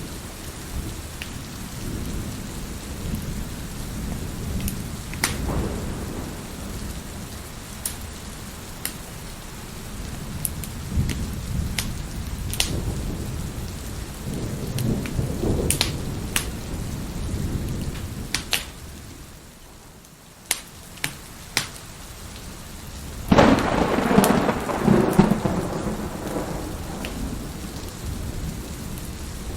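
Steady heavy rain with repeated rolls of thunder. A loud thunderclap comes about three-quarters of the way through. Sharp pops of a crackling wood fire sound throughout.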